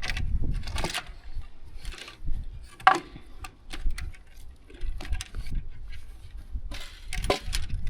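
Scattered small metallic clicks, clinks and rustling as fence wire and gate hardware are handled and threaded through with a tool, over a low rumble.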